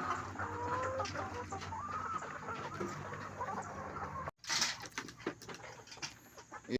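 A flock of young layer pullets calling and clucking, many short overlapping chirps and gliding calls, over a low steady hum. The sound cuts out briefly about four seconds in and returns with a loud short noise.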